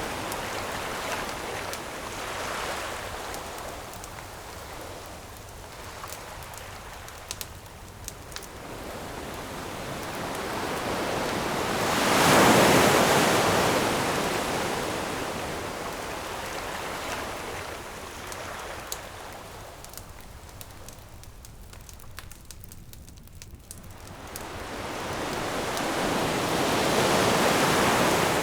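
Ocean waves washing onto the shore, the surf swelling and fading slowly, with the biggest waves about twelve seconds in and near the end. Now and then a faint crackle or pop from a campfire can be heard in the lulls.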